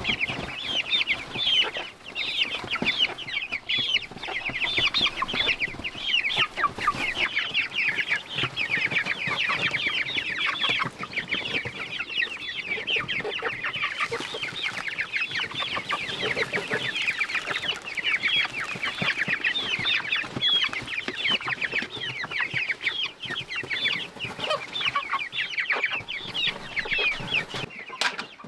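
A flock of chickens clucking, many short high calls overlapping without a break.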